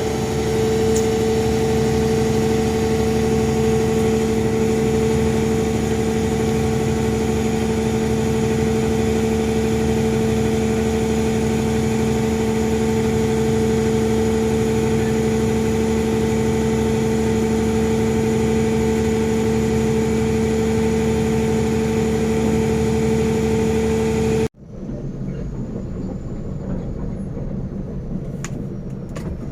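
Heavy diesel engine running steadily at a constant speed, with a strong even hum. About five seconds before the end it cuts off abruptly to a quieter, lower engine rumble.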